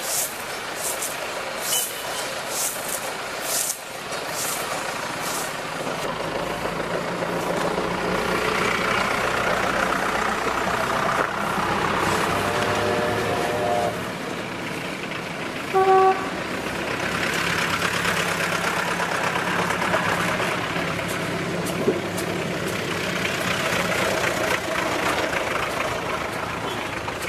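C2 narrow-gauge steam locomotive and its train running, a steady noisy rush, with a string of sharp bursts in the first few seconds. A short whistle toot sounds about sixteen seconds in.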